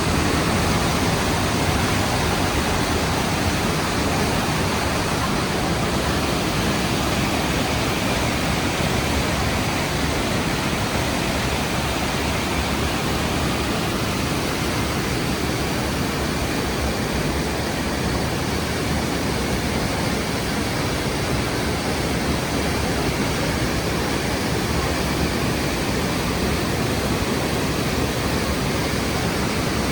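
Rhine Falls, a large waterfall, heard close up: a loud, steady roar of falling water that does not change.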